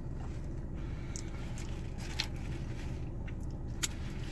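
Steady low rumble of a car cabin with a few faint clicks of chewing.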